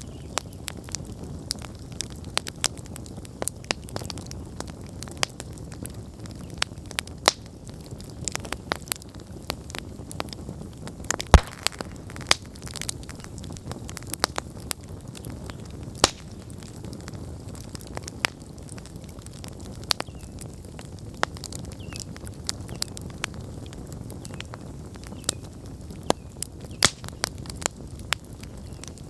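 Wood campfire burning: irregular sharp crackles and pops over a low, steady rumble of flame, with one loud pop about eleven seconds in.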